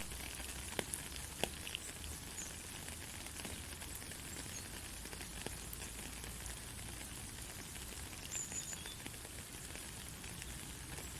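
Gentle steady rain, an even hiss with a few light drop ticks about a second in.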